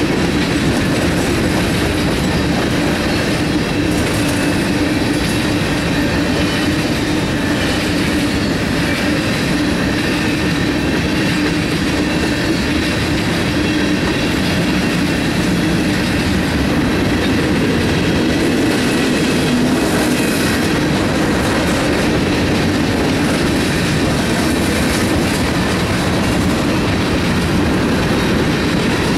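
A freight train of hopper, tank and box cars rolling steadily past a level crossing, a continuous rumble and clatter of wheels on the rails.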